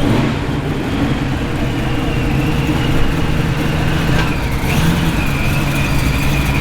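Car engines running at low speed as cars roll past, a steady low rumble, with a thin high steady tone alongside.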